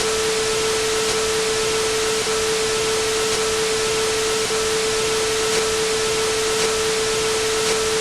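Steady hiss of static-like white noise with a single steady tone held over it, and a faint tick about once a second.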